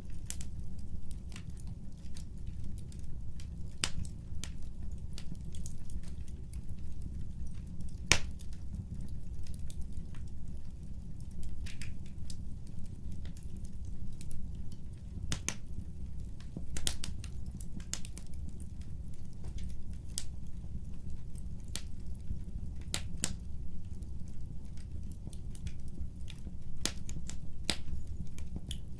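Wood fire burning: scattered sharp crackles and pops over a steady low rumble, with one louder pop about eight seconds in.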